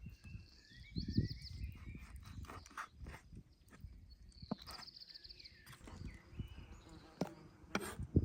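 Small birds singing outdoors: two short, rapid high trills, with scattered clicks and knocks of handling and a few low thuds around them.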